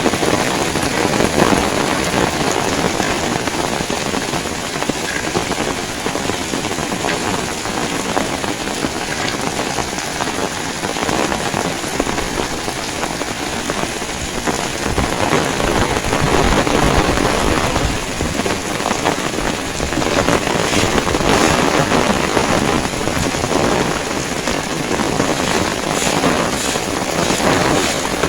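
Heavy rain pouring steadily, with strong wind gusting and rumbling in surges, strongest in the second half.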